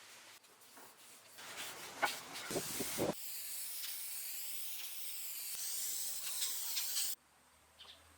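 Finish being sprayed onto the wood: a steady hiss for about four seconds that cuts off suddenly. Before it come a couple of seconds of scraping and a few knocks.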